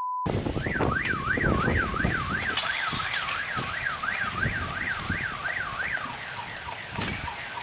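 Car alarm sounding: a fast up-and-down electronic wail, about two and a half sweeps a second, fading near the end, over a steady low rumble of noise.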